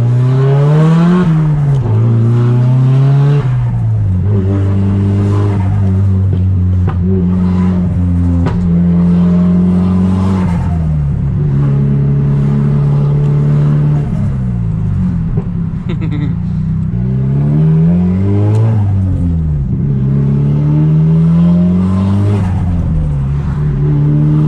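Straight-piped Nissan Silvia S15's turbocharged SR20DET four-cylinder, heard from inside the cabin, pulling through the gears: the engine note climbs and drops abruptly at each shift, several times, with longer stretches held at a steady pitch while cruising.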